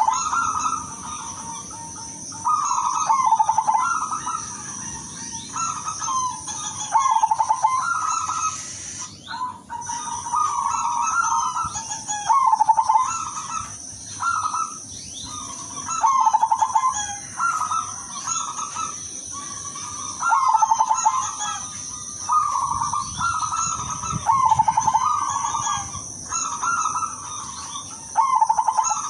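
Zebra dove (perkutut) singing its repeated rolling cooing phrases, about one every second or two, with a short break near the middle, over a steady high-pitched hiss.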